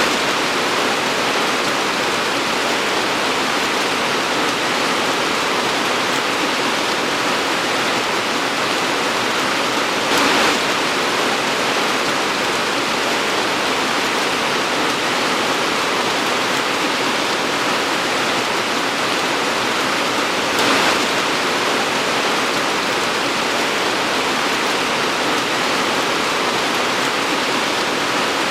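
Torrential rain pouring down in a steady, dense hiss, with two brief louder surges about ten and twenty seconds in.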